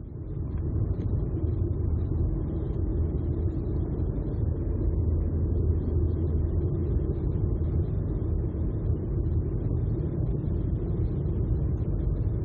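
Steady low rumble of the Furka car-carrier train running through a rail tunnel, heard from a car riding on its wagon. It sets in suddenly at the start and settles to an even level within about a second.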